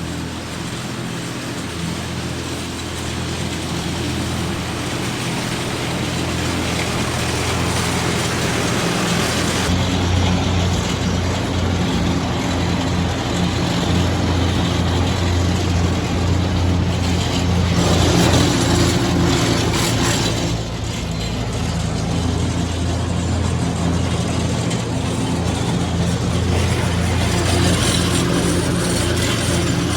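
Vintage Ford tractor engine running steadily while driving a PTO finishing mower, with wind noise on the microphone. It grows louder and heavier about ten seconds in.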